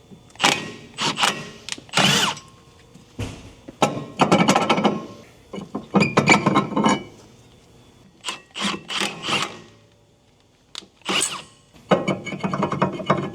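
Tool work on car suspension parts: several separate bursts of rattling, clicking mechanical noise, each up to about a second long, with short pauses between and a quiet spell about two-thirds of the way through.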